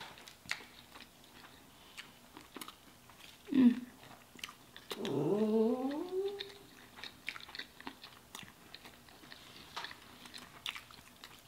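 Chewing and biting of burgers and fries, close to the microphone, with small wet mouth clicks. A short low sound about three and a half seconds in is the loudest moment. About five seconds in comes a hum that rises in pitch for a second or so.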